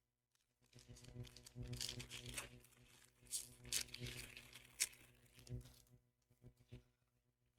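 Foil wrapper of a Japanese Pokémon TCG booster pack being torn open and crinkled by hand: a run of rustling with a few sharp tears, stopping about six seconds in.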